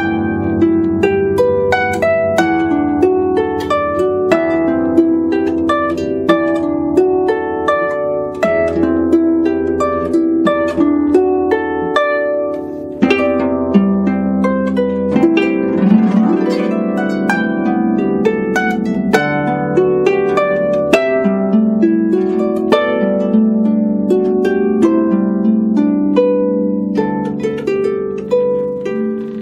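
Solo harp playing: a steady flow of plucked notes and chords, with a rush of many quick notes about sixteen seconds in.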